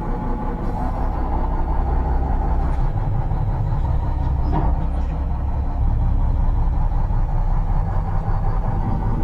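Old Mack roll-off truck's diesel engine running steadily under way in low gear with the PTO engaged, a deep low rumble that changes about three seconds in.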